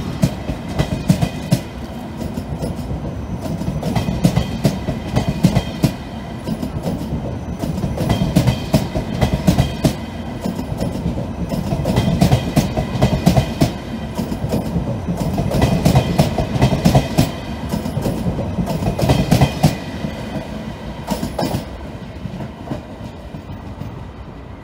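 ÖBB Railjet passenger coaches rolling past close by, with a steady rumble and the wheels clacking over rail joints in repeated clusters every few seconds. The sound fades over the last couple of seconds as the end of the train draws away.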